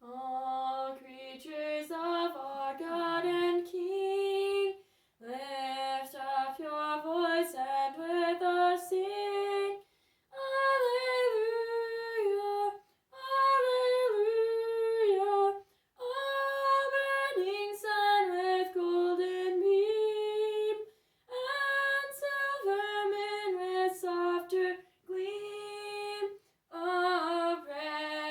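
A woman singing a melody in phrases of a few seconds each, with short pauses between them.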